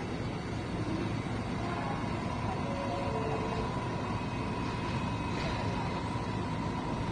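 Steady subway-station rumble from a train standing at the platform, with a steady high whine that grows a little stronger after a second or so.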